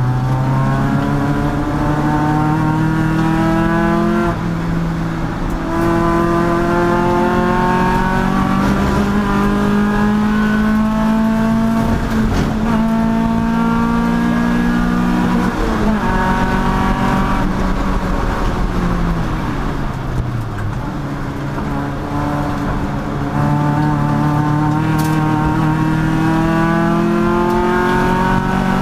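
Endurance race car's engine under hard acceleration, its pitch climbing in each gear with upshifts about 4 and 12 seconds in. About halfway the driver lifts and the note falls for braking and downshifts, then it climbs steadily again under power near the end.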